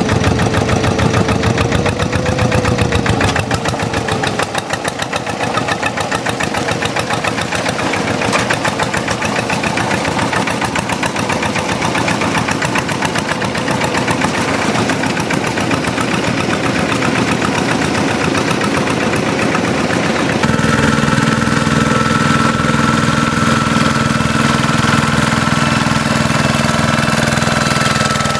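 Single-cylinder diesel engine of a walk-behind hand tractor running steadily under load with a rapid, even knock as it pulls a harrow through a wet paddy. About twenty seconds in, the sound changes to a steadier hum with a held high tone.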